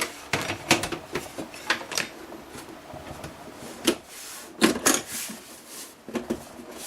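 Metal side panel of a desktop computer case being fitted back on and handled: a string of irregular metallic clicks and knocks, busiest around the middle.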